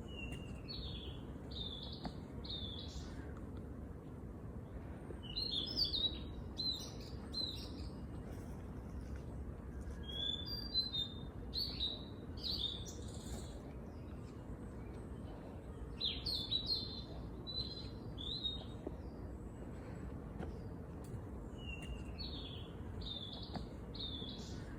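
Songbird singing short phrases of high, quick chirping notes, a phrase about every five or six seconds, over a steady low background rumble.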